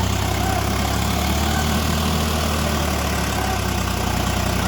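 Tractor's diesel engine running steadily at low revs, a deep even chug with no revving.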